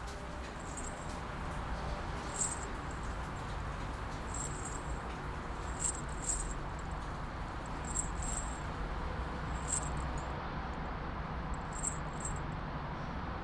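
Steady rain with a low rumble underneath, and short sharp clinks every second or two, sometimes in quick pairs.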